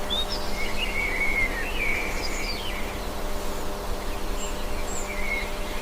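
Birds calling over a steady outdoor ambience with a faint hum, a nature soundscape bed. A warbling run of calls fills the first three seconds, followed by a few short chirps.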